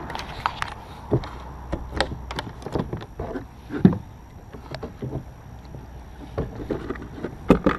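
Kayak being paddled through a tight spot: irregular knocks and splashes of the paddle against the hull and water. The loudest knocks come about four seconds in and again near the end.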